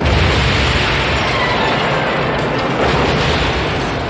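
A loud rushing noise with a deep rumble that cuts in suddenly and slowly fades over a few seconds.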